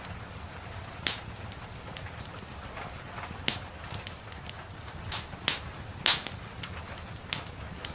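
Wood fire crackling in a fireplace: irregular sharp pops and snaps, the loudest about six seconds in, over a steady low rumble and a soft, even background of rain.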